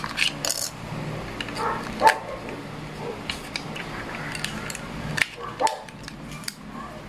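Plastic clicks and small rattles as AA batteries are fitted into a solar flood light's plastic remote control and its battery cover is handled. A dog barks briefly twice in the background.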